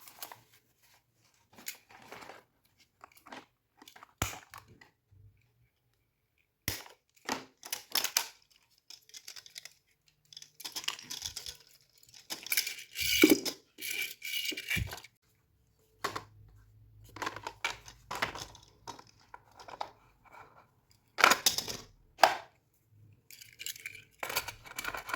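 Hot Wheels monster truck toy packaging being unboxed: cardboard and plastic tearing and crinkling in irregular bursts, with sharp clicks and taps in between.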